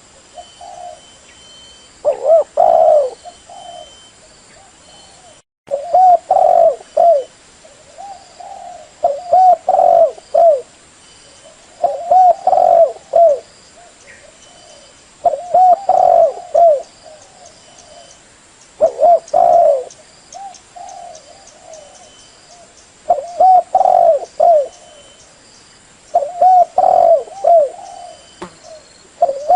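Spotted dove cooing: a repeated multi-note phrase, about every three to four seconds.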